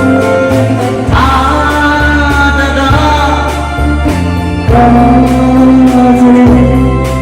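Live band music: a slow song with long held chords and sung notes over bass.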